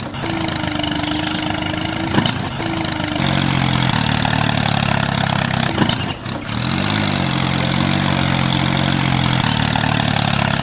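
A small motor running steadily. A pitched hum joins it about three seconds in, wavers briefly around the middle, and there are a couple of short clicks along the way.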